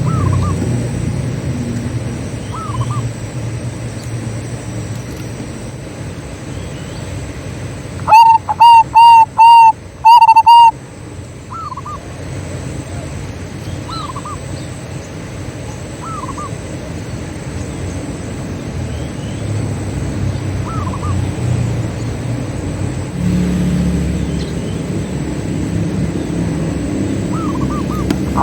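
Zebra dove (perkutut) cooing: a loud run of about five quick notes about eight seconds in, with fainter coos scattered through the rest, over a low background rumble.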